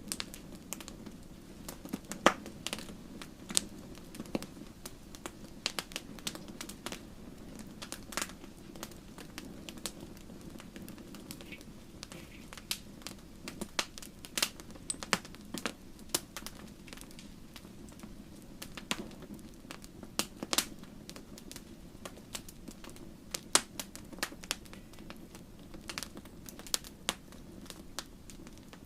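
Wood fire crackling in a fireplace: irregular sharp pops and snaps, a few loud ones standing out, over a steady low rushing background.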